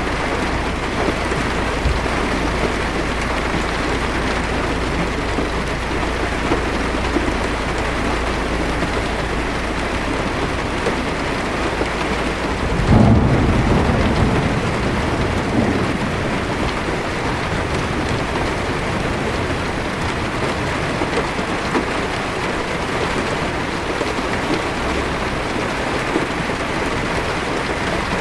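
Heavy rain drumming steadily on a car's windshield and roof, heard from inside the cabin. About halfway through, a rumble of thunder swells and fades over a couple of seconds.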